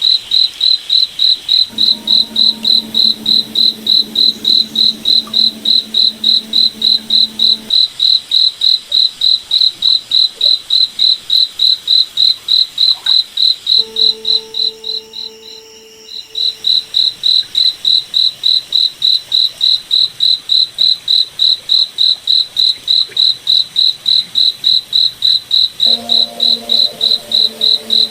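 Cricket chirping, a single high pitch repeated about three times a second, fading out briefly about halfway through. A lower steady hum comes and goes underneath.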